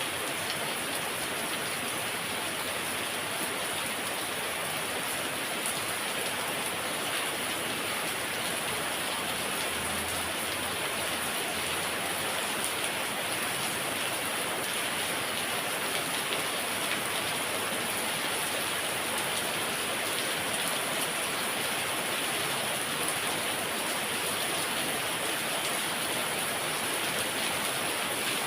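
Heavy, steady rainfall: a dense even hiss of rain pattering on surfaces.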